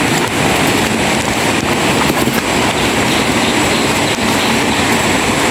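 A waterfall rushing: a loud, steady noise of falling water.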